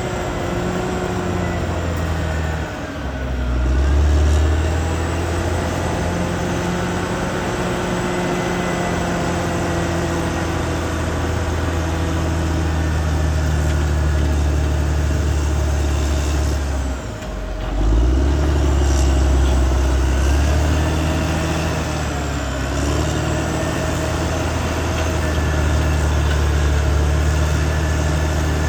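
Caterpillar D6R XL bulldozer's diesel engine running steadily while working, with a faint high whine above it. The engine note drops briefly twice, about three seconds in and again near seventeen seconds, then picks back up louder.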